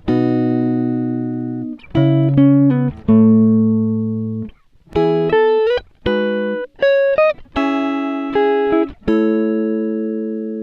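Background music: a plucked guitar playing short melodic phrases, each note ringing out and fading.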